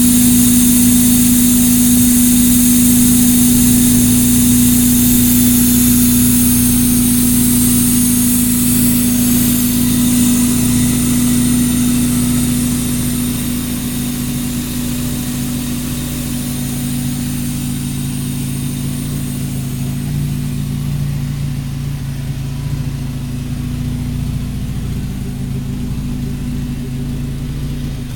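Mazda Miata four-cylinder engine, swapped into a Datsun Roadster, idling steadily. It is louder for the first dozen seconds and quieter after that.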